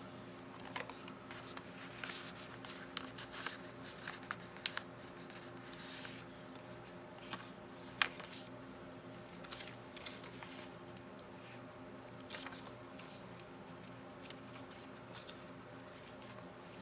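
Paper and card stock being handled and sorted: soft rustling with scattered light taps and clicks, one sharper click about halfway through, over a faint steady hum.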